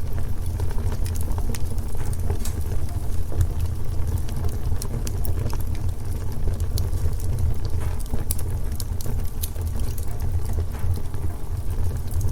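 Wood fire burning in a fireplace: a steady low rumble of the flames with irregular crackles and pops of the burning logs.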